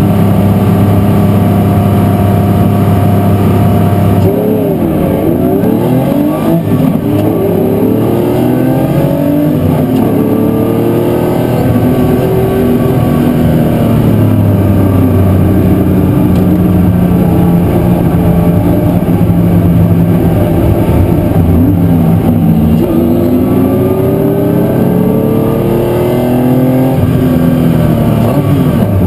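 Race car engines held at steady revs, then about four seconds in accelerating hard, the pitch climbing and dropping back at each gear change, again and again.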